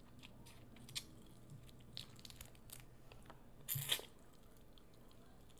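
A person eating birria ramen: quiet chewing with small, scattered mouth clicks, and one louder, brief mouth sound just before four seconds in.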